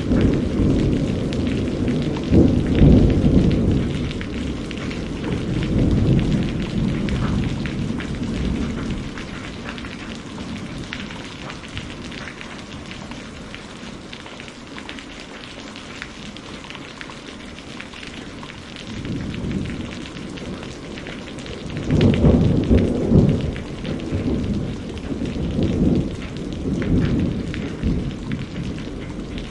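Steady rain falling, with two long rolls of low thunder: one rumbling through the first several seconds and another building about twenty seconds in.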